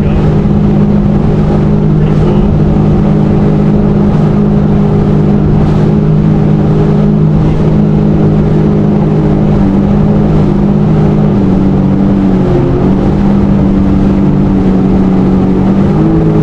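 Jet ski engine running steadily at high speed, its pitch easing a little about twelve seconds in and bending again near the end.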